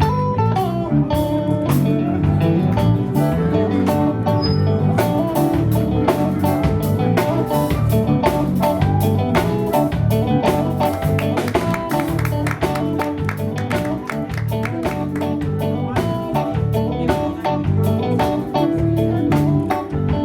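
Live band playing an instrumental passage with no singing: guitar lines over bass and a steady drum beat.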